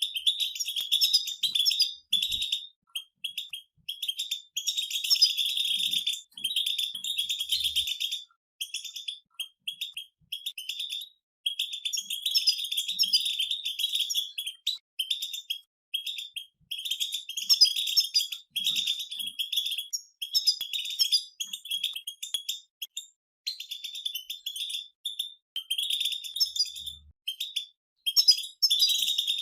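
European goldfinches twittering together: rapid, high, chattering song in phrases of a second or two, broken by short pauses.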